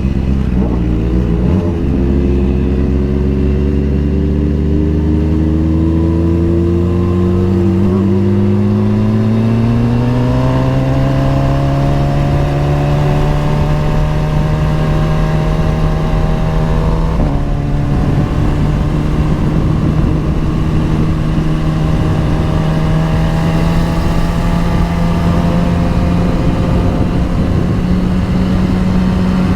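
Motorcycle engine heard from on the bike, pulling with its pitch climbing slowly, dipping briefly at a gear change about halfway through, then running at a steady cruise, with wind rush throughout.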